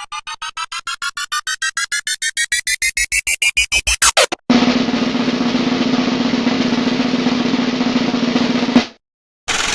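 Two stock comedy sound effects. First, a rapid run of pulses that speeds up, rises in pitch and grows louder, like a drum roll building, then cuts off about four seconds in. Then a steady buzzing noise with a low hum that stops abruptly near the end.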